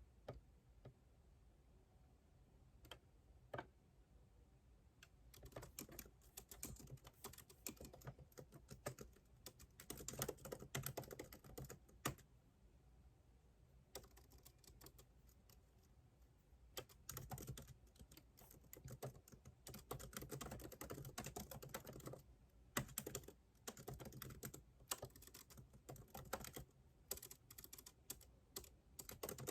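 Faint typing on a computer keyboard: a few scattered key clicks at first, then quick runs of clicks, broken by a pause of several seconds in the middle.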